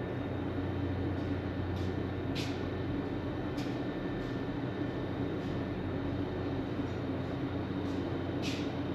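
A machine running steadily, a low even hum with a few faint clicks or taps.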